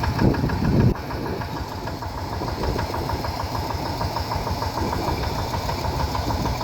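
Rice-field tractor's engine running with a steady, rapid knocking beat, a little louder for about the first second before the level drops.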